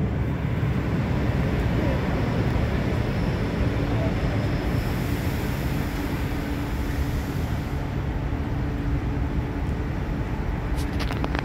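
Aeroexpress ED4MKM-AERO electric multiple-unit train pulling slowly into the platform: a steady rumble, with a hum from about three seconds in and a brief high hiss in the middle.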